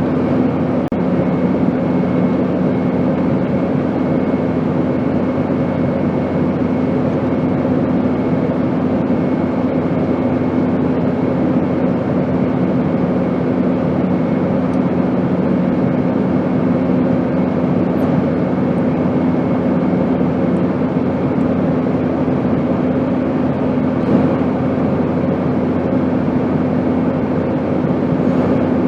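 Airplane in flight: a steady, even engine drone with a few humming tones, one low hum fading out about two-thirds of the way through.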